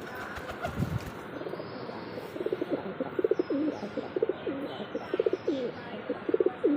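Pigeons cooing, a run of repeated throaty, pulsing coos starting about two seconds in.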